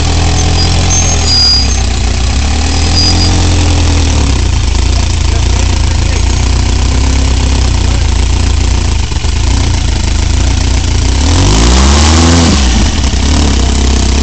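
Off-road crawler's engine running at low revs while crawling over rocks, with a short rev that rises and falls about twelve seconds in.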